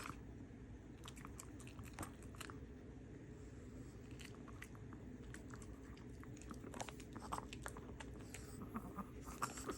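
A dog chewing and crunching food, eating the food its medicine is hidden in: faint, scattered crunches, with clusters of them about a second in and again near the end.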